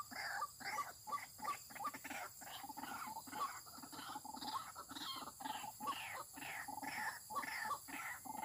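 White-breasted waterhen calls: a steady run of short, harsh 'ruak-ruak' notes repeated about three times a second, without a break.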